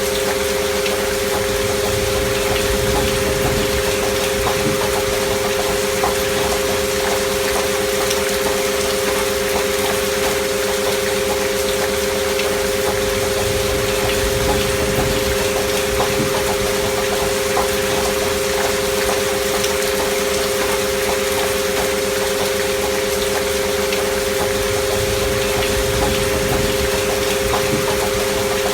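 Two steady pure tones held together without change, from a binaural-beat 'frequency' track, layered over soft steady rainfall with scattered drop ticks.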